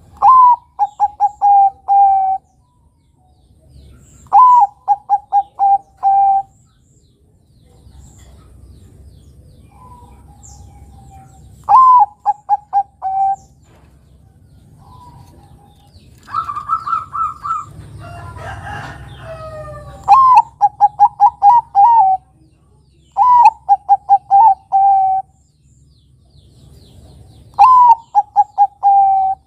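Zebra dove (Bangkok-type perkutut) singing its cooing song: about six phrases a few seconds apart, each a higher opening note followed by a quick run of short staccato coos. A different, noisier call comes in the middle.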